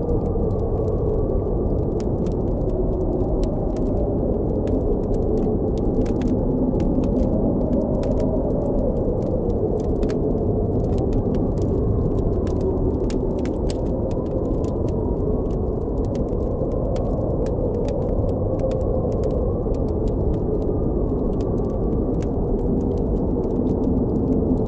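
Blizzard wind howling steadily, its pitch slowly wavering up and down, over the irregular sharp crackles and pops of a campfire.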